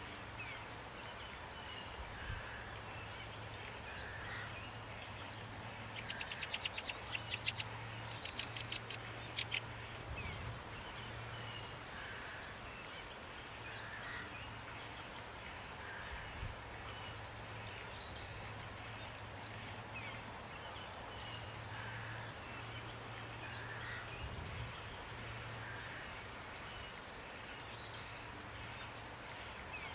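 Songbirds chirping and calling over a steady hiss of rain. A rapid rattling trill stands out for a few seconds, starting about six seconds in.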